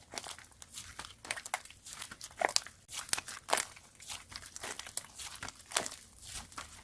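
Slime being squeezed and pressed by hand, giving a run of irregular crackling pops several times a second.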